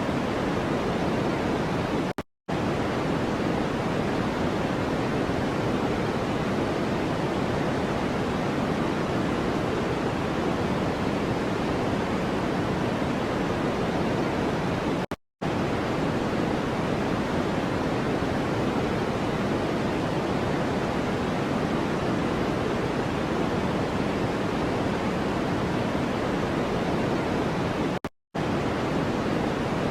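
Steady white-noise track, heavier in the lows than in the highs, cut by three brief silent gaps about 13 seconds apart.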